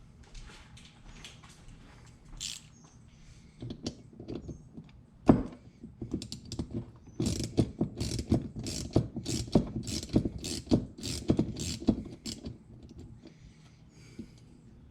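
Hand work on a disassembled 1972 Honda CB450 carburetor: scattered small metal clicks, then a sharp knock about five seconds in. After that comes a steady run of quick clicks, about three a second, lasting some five seconds.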